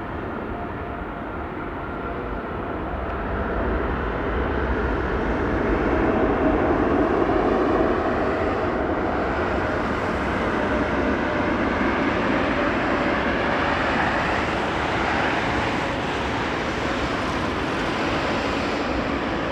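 Passenger jet airliner flying past low on approach to land, a steady jet engine noise. It swells over the first few seconds and then holds, with a faint engine tone slowly dropping in pitch as it passes.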